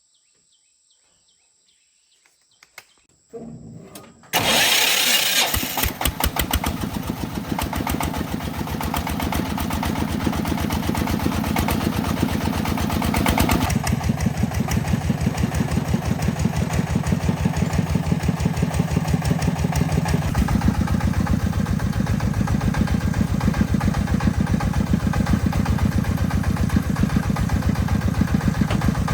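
An engine starts about four seconds in and runs on steadily with a rapid, even pulsing beat.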